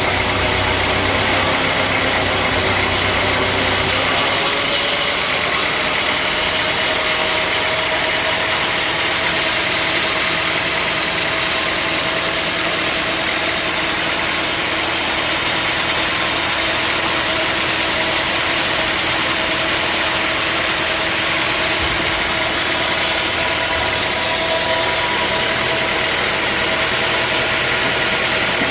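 Engine-driven sawmill machinery running steadily, a dense hiss over a few steady tones; the deep rumble drops away about four seconds in.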